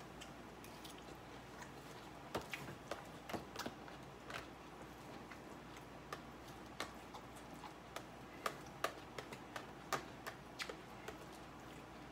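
A person chewing a mouthful of salad, heard as irregular small clicks over faint room noise.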